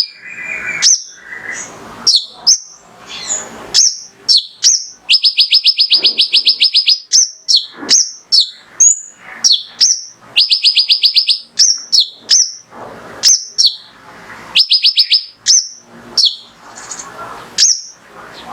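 Male kolibri ninja sunbird singing: sharp, high chirps scattered throughout, broken by rapid trills of evenly repeated notes, about eight a second, each lasting a second or two. This is the fierce full song used as a tutor and provocation call to set other males singing.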